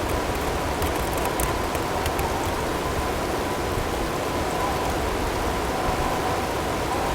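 Blizzard ambience: a steady rush of storm wind with a faint steady tone mixed in beneath it, and a few faint ticks in the first couple of seconds.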